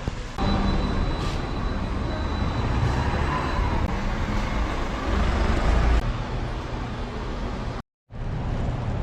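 Running car, engine and cooling fan, giving a steady mechanical hum with a low rumble and a faint high whine for the first few seconds. It cuts out briefly near the end.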